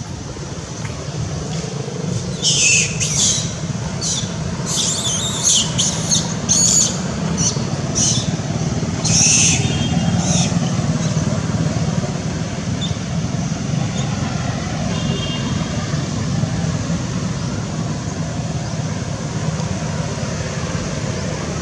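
A baby monkey screaming in a rapid series of short, high-pitched shrieks, starting about two seconds in and stopping around ten seconds in, over a steady low rumble.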